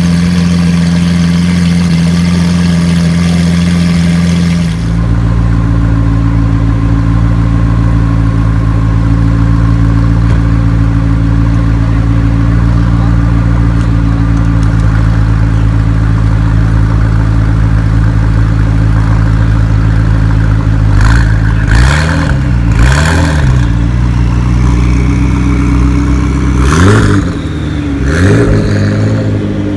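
Lamborghini Aventador's V12 idling steadily, then, after a cut about five seconds in, a McLaren's twin-turbo V8 idling. The McLaren is blipped in quick revs, a burst of about three about two-thirds through and two more near the end.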